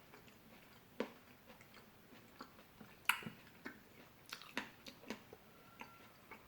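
Close-miked mouth sounds of a person biting into and chewing fresh fruit: scattered sharp, wet crunches and clicks, the loudest about three seconds in.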